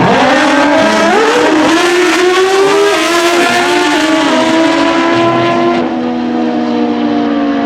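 Drag racing motorcycles running hard down the strip, their engine notes climbing and stepping down at each gear shift. The sound grows duller and a little quieter from about six seconds in as the bikes pull away.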